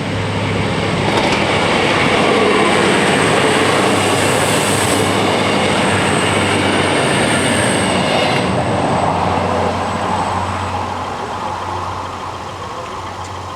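NMBS class 41 (MW41) diesel railcar passing over the level crossing, its wheels clattering on the rails with a high, thin squeal. The noise swells about a second in and fades after about eight seconds.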